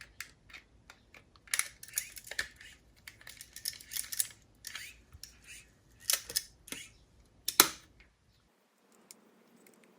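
Irregular sharp plastic clicks and knocks of the Aiwa HS-PL55 walkman's battery cartridge being handled and fitted, with the loudest snap about seven and a half seconds in.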